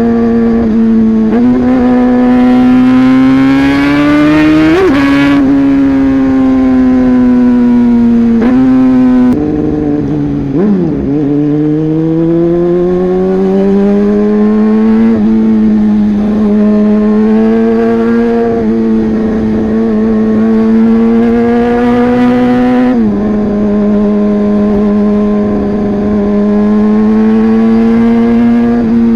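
Yamaha R15 V3's 155 cc single-cylinder engine with a modified, loud exhaust, running under way with the revs climbing and dropping in steps like gear changes, and a brief dip and rise about ten seconds in.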